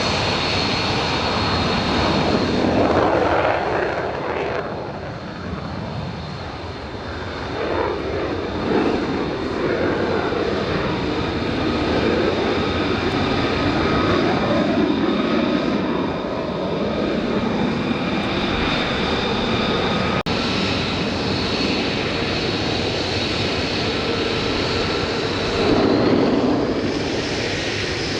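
A military aircraft's engine running with a steady high whine over a broad rumble. The sound eases off about five seconds in, builds again, and swells once more near the end.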